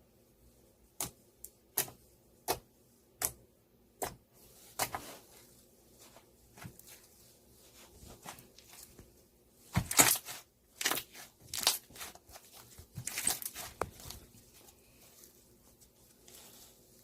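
Light, sharp taps about once every three-quarters of a second in the first few seconds, then a louder stretch of crinkling and tearing handling noise from about ten to fourteen seconds in.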